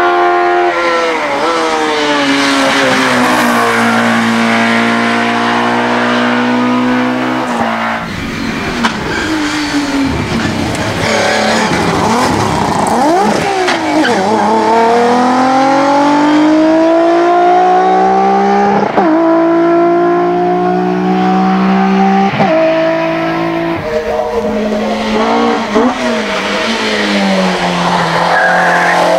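Racing touring car engine revving hard on a hillclimb. The pitch climbs with speed and drops sharply at each upshift, several times through the run.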